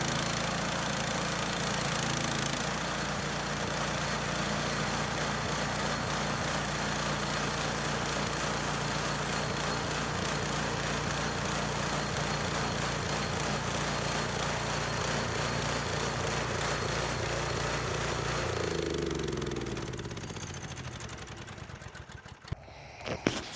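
Small gasoline engine of a budget portable sawmill running steadily, then shut off about 18 seconds in and winding down to a stop, followed by a few sharp clicks near the end.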